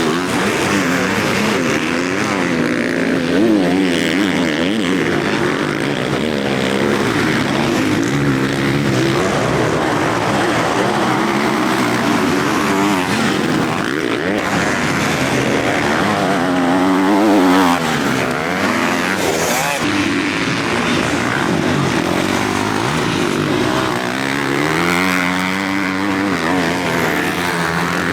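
Several motocross bikes racing on a dirt track, their engines revving up and down as they accelerate and shift, several at once and overlapping throughout.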